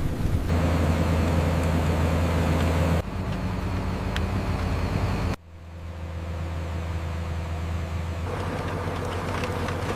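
Steady low mechanical hum and rumble of factory machinery. The sound changes abruptly about half a second in, again about three seconds in, and drops sharply about five and a half seconds in before settling into a quieter, steady hum.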